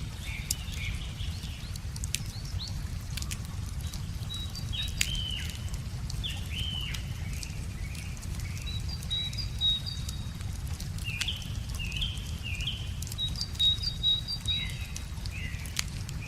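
Songbirds chirping and whistling in short sweeping phrases over the crackle and sharp pops of a wood bonfire, with a steady low rush underneath.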